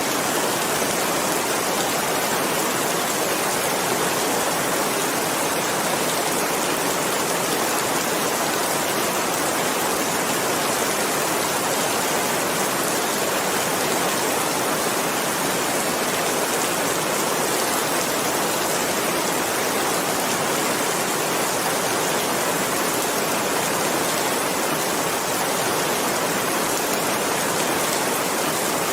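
Steady rain falling, a dense even hiss of many drops with no distinct single hits or changes.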